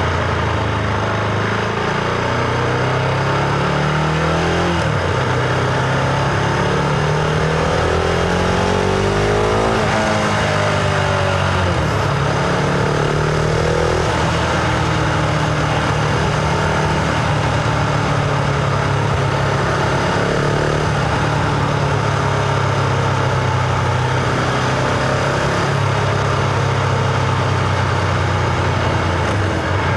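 Husqvarna Vitpilen 701's single-cylinder engine accelerating under way, its pitch rising in long sweeps that drop suddenly at gear changes about 5 and 10 seconds in, then holding a steadier pitch while cruising, over a constant rush of wind.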